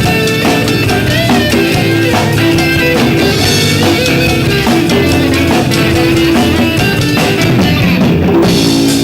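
Live rock band playing: drum kit, guitar and bass guitar, with a steady beat.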